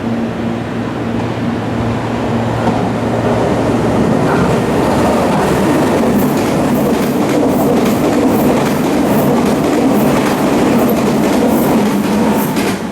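Meitetsu electric train passing through a station at speed without stopping: a rising rush of noise as it comes in, then from about six seconds in a rapid clickety-clack of the wheels over the rail joints as the cars go by.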